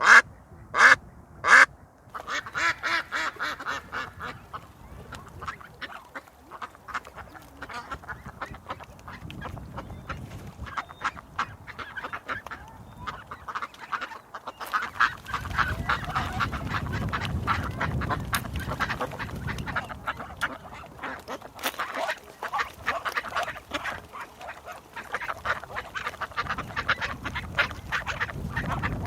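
Ducks quacking: three loud calls right at the start, then a busy, steady chatter of many quacks. A low rumble joins in about halfway through.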